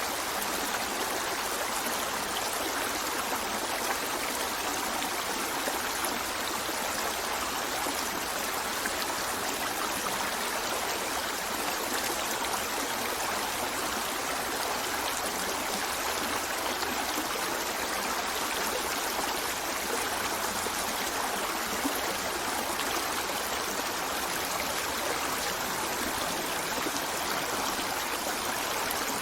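River water flowing over rocks: a steady rushing and babbling with no change throughout.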